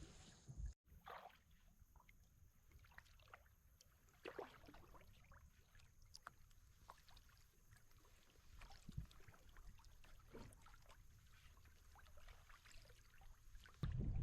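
Near silence with faint, scattered small water splashes and drips around a resting kayak, about one every couple of seconds. Just before the end a louder rush of water and wind noise comes in.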